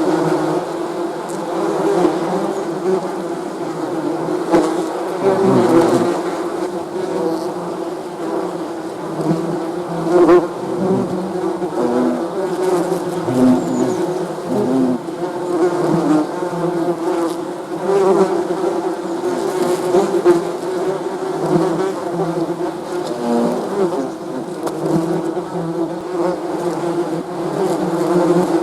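Many bees buzzing together in a steady drone of several overlapping tones, with single bees' buzzes wavering in pitch as they pass close by.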